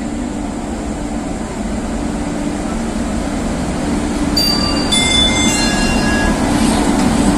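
Indian Railways WAP-7 electric locomotive hauling an express train along the platform: a steady rumble and hum that grows louder as it draws close. A few short high-pitched squeals come from the train from about four seconds in.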